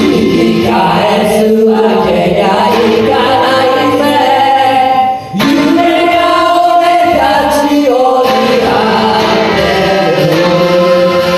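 A sung rock cover with voices singing together in long held notes over the accompaniment. It briefly drops off about five seconds in.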